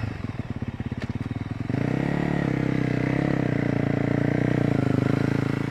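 Motocross dirt bike engine running with a rapid, uneven beat, then held at a steady higher speed from just under two seconds in.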